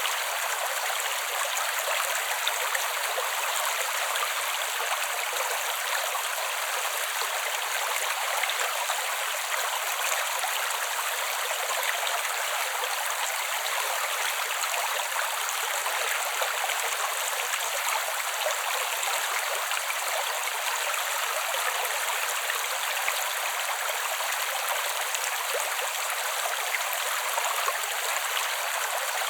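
Small creek flowing steadily over rocks: an even rush of running water that is bright and hissy, with no low rumble.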